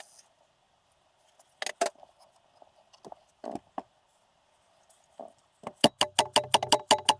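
Small metal clicks and clinks of tools and engine parts being handled during an engine teardown: a couple of clicks, a few scattered ones, then a quick run of clicks near the end.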